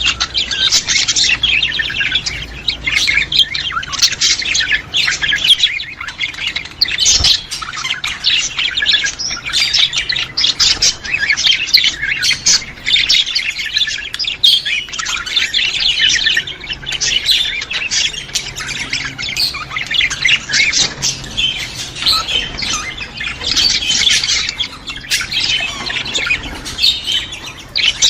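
A flock of budgerigars chattering, with many high-pitched calls and squawks overlapping in a dense, unbroken stream.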